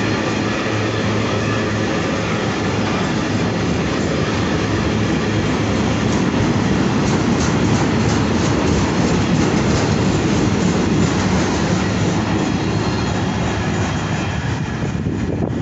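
Freight train of covered wagons rolling past at close range: a steady rumble and rattle of wagon wheels on the rails, easing a little near the end as the last wagon goes by.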